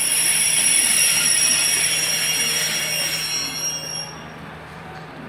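Class 143 Pacer diesel unit arriving and drawing to a stop, its wheels and brakes giving a high, steady squeal of several tones over a rushing rumble that fades out about four seconds in.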